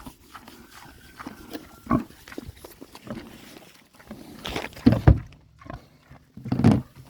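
Pig grunting in a few short, loud bursts.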